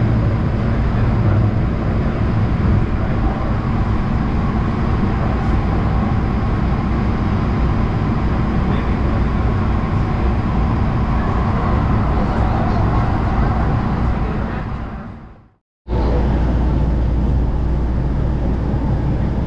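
Light-rail train running, heard from inside the car as a steady noise of motors and wheels on track. About three-quarters through it fades out, and after a moment's silence a similar steady noise with a deeper hum starts abruptly.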